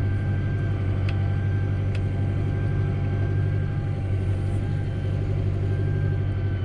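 A vehicle engine running steadily at constant speed: a low, even hum with a faint higher whine.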